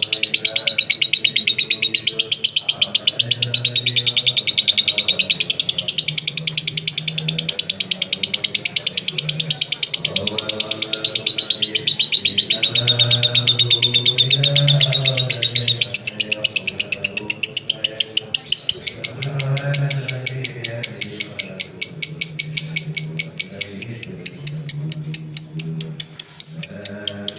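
Lovebird giving a long, unbroken 'ngekek': a rapid, high-pitched chattering trill that runs without pause, stepping up slightly in pitch about halfway through. A fainter low sound comes and goes underneath.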